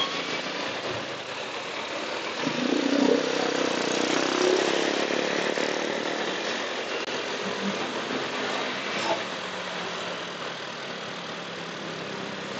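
Motorcycle running while being ridden in traffic, its engine hum under a steady rush of road and wind noise that swells for a couple of seconds a few seconds in.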